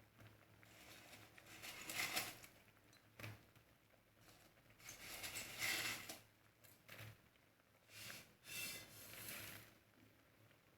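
Faint stirring of wheat noodles in a pan of boiling water, in several short scraping bursts.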